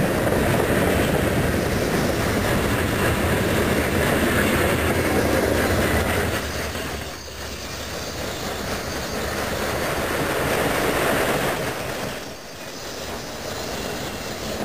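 Freight train cars rolling past close by: the steady rumble and rattle of steel wheels on the rails. The sound drops off briefly twice, about seven and twelve seconds in.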